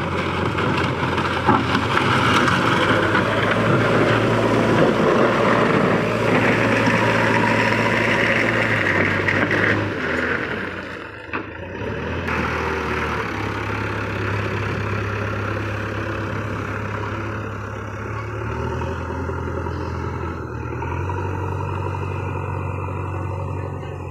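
Diesel engine of earthmoving machinery running at work, its speed stepping up and down several times, with a brief drop in loudness a little before halfway.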